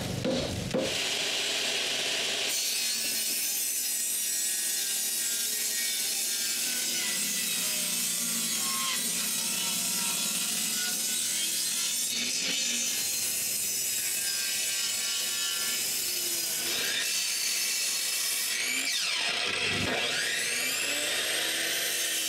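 Power saw running and cutting through a 2x6 board, one continuous stretch of sawing. A few seconds before the end the pitch dips and recovers.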